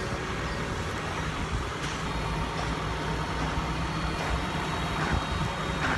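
A vehicle engine running steadily with a low hum, with a couple of faint clicks.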